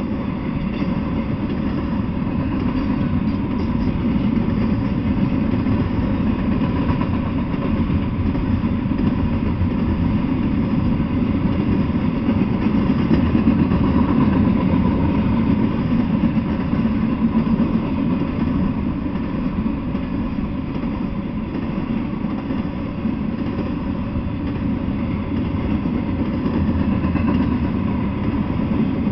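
Steady low rumble of an intermodal freight train's cars rolling past on the rails, carrying truck trailers and double-stacked containers.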